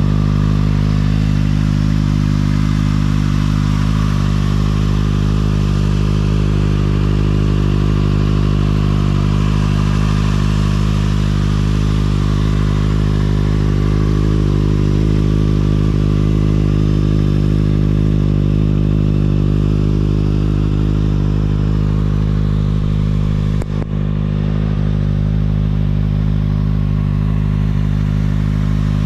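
Kawasaki ZX-6R 636's inline-four engine idling steadily through an aftermarket Akrapovič exhaust, its pitch holding level with no revving. There is one brief knock late on.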